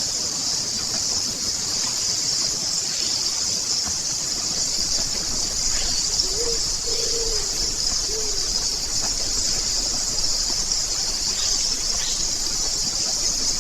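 Night forest ambience: a steady, high insect chorus of crickets, with three short, low bird calls about halfway through and a few faint chirps.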